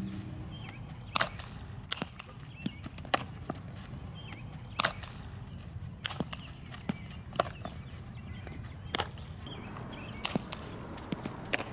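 A string of about a dozen sharp, irregular knocks and pops from softball practice over a quiet background.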